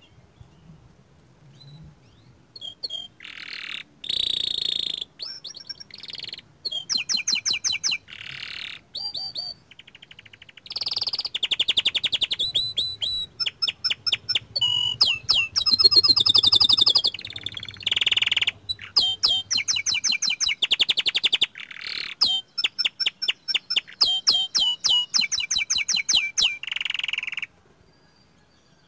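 Young domestic canary singing a long, varied song of rapid trills and quick repeated chirps. It starts a few seconds in and stops shortly before the end.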